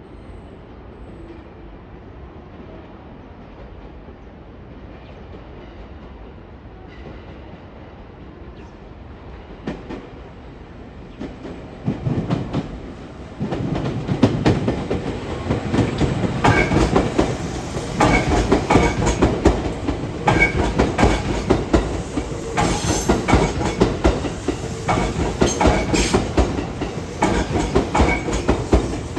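Train wheels clicking rapidly over the rail joints as a train moves along the station platform. The train becomes audible about twelve seconds in and grows loud.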